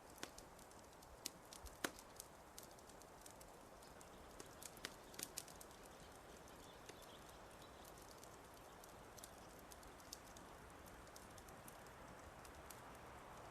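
Fireplace fire crackling: irregular sharp pops and snaps over a soft steady hiss. The pops come thickest in the first half and thin out later.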